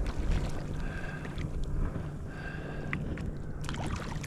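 Wind on the microphone and water moving against a kayak hull, a steady low rumble with a few faint clicks and two brief faint high tones about a second and two and a half seconds in.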